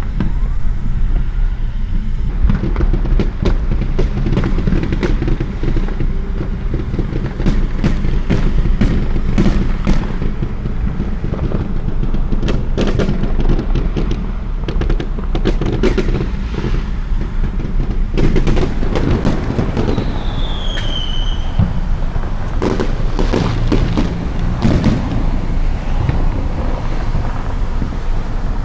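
Consumer fireworks going off all around: a dense, irregular stream of pops and bangs, some close and some distant, over a steady low rumble. About twenty seconds in, a short whistle falls in pitch.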